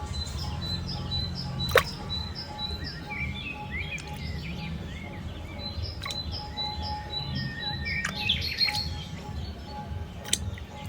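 Birds chirping and twittering, with a run of quick repeated high notes, over a steady low hum. A sharp click cuts through about two seconds in and again near the end.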